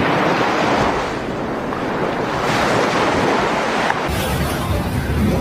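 Floodwater rushing, a loud steady roar of water. A low rumble joins about four seconds in.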